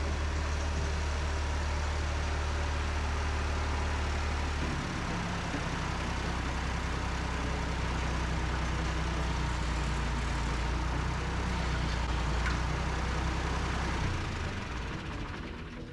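Tractor engine running steadily with a low hum, its engine speed changing about five seconds in, then dropping away near the end.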